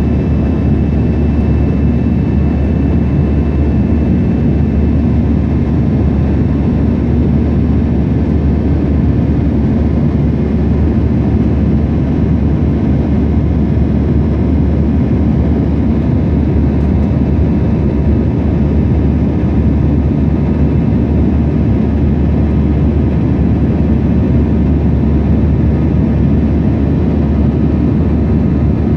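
Airbus A321 jet engines running at a steady, loud, even level, deepest in the low range, with no change in pitch or loudness.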